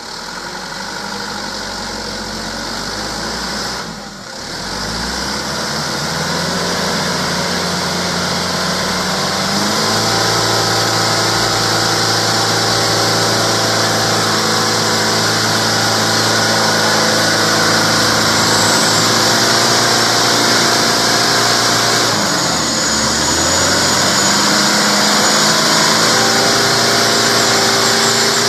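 Mitsubishi Canter 4x4 truck's diesel engine running hard under load while towing another truck uphill. Its note holds steady, sags briefly about four seconds in and again near the twenty-third second, then climbs back.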